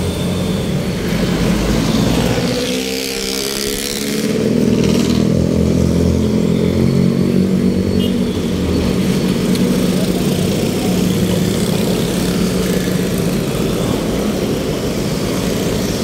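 Motor vehicle engines running in road traffic, with one vehicle passing close by a few seconds in.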